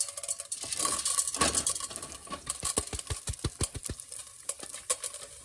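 Popcorn kernels poured into a pot of hot olive oil, a rapid run of clicks and rattles against the pot, densest in the middle, over faint sizzling of the oil.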